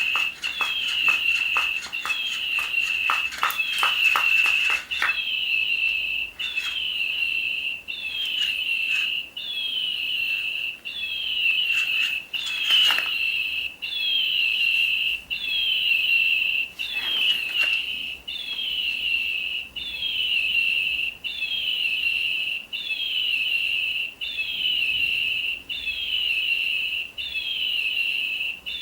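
Battery-powered toy bird chirping electronically: a high falling tweet repeated in an even loop about every second and a half. Rapid clicking sounds over it for the first five seconds, with a few scattered clicks later.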